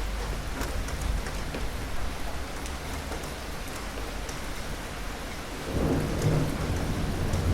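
Steady rain falling, with scattered sharp drop ticks over an even hiss. About three quarters of the way through, a low rumble of thunder swells in and carries on to the end.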